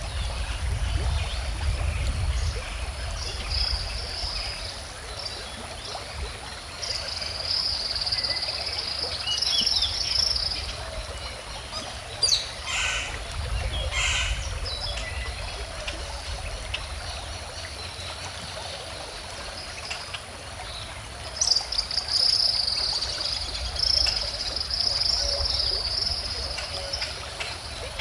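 Stream water trickling and flowing steadily, with birds singing over it: two long stretches of high song, one about a quarter of the way in and one in the last third, and two sharp short calls near the middle.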